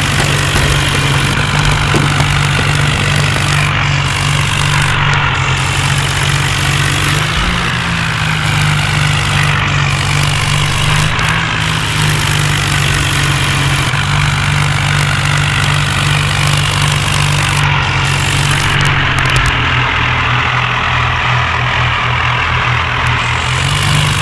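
John Deere tractor's diesel engine running steadily, with slight shifts in its pitch partway through.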